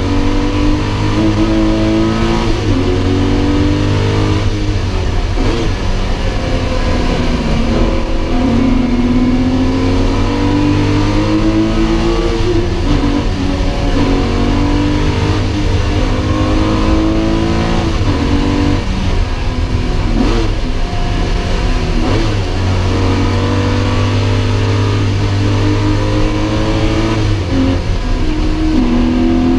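Air-cooled 3.6-litre flat-six of a Porsche 911 (993), heard from inside the cabin while driven hard, revving up again and again, with its pitch climbing and then dropping back at each shift or lift for a corner.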